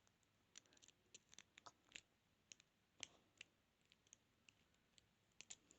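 Faint, irregular clicks and scratches of a lock pick and tension tool working the pins inside a padlock, a couple of dozen small ticks at no steady rhythm.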